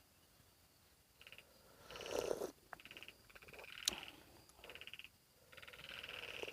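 Frogs calling in repeated short bursts of rapid trilled pulses, starting about a second in and going on in a series. About two seconds in there is a louder brief rustling noise, and a sharp click just before four seconds.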